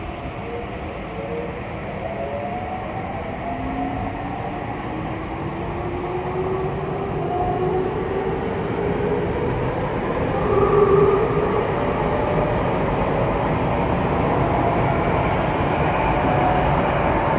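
Saitama Railway 2000 series train accelerating, heard from inside the car: the motor whine rises steadily in pitch over the rumble of the running gear, growing louder as the train gathers speed.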